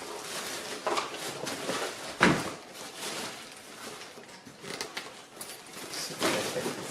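Handling noise in a small room: scattered clicks and knocks of objects being moved, with one sharp knock about two seconds in.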